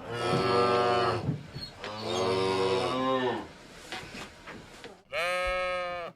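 Cow mooing: two long moos, then a shorter one near the end.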